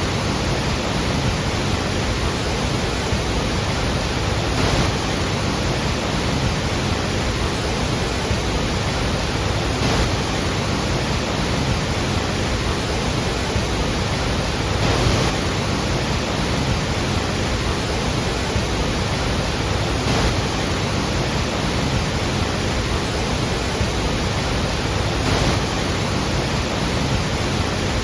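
Iguazu Falls: a steady, dense rush of falling water.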